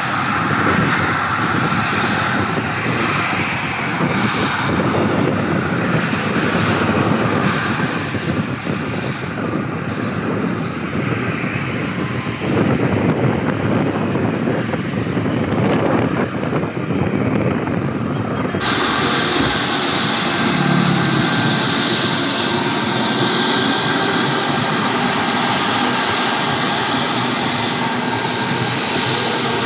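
An airliner's engines running with a loud, steady noise. The sound turns hissier and brighter about two-thirds of the way through.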